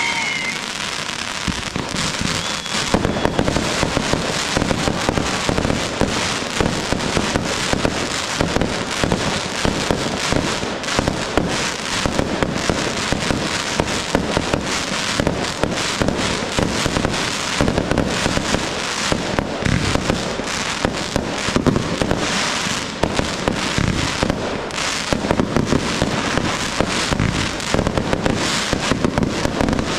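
Professional fireworks display: a dense, unbroken barrage of launches, bangs and crackling bursts, many shots a second with no pause.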